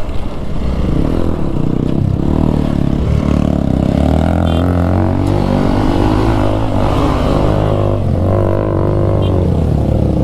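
Single-cylinder motorcycle engine running and being revved, its pitch rising and falling several times.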